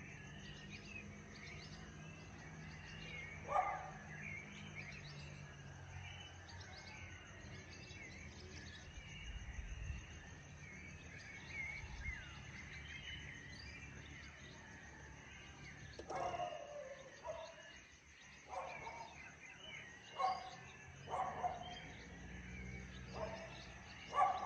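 Many small birds chirping and twittering together, over a steady high-pitched tone. Louder, lower animal calls come once about three and a half seconds in and several times in the last eight seconds.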